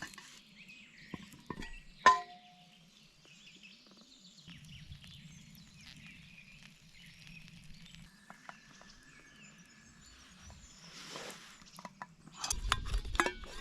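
Small birds chirping faintly, with one sharp clink that rings briefly about two seconds in, and louder knocking and clatter near the end.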